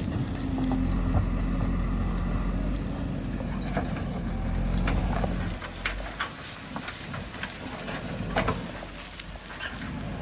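JCB 3DX backhoe loader's diesel engine running steadily, dropping back about five and a half seconds in, with a few short knocks scattered through.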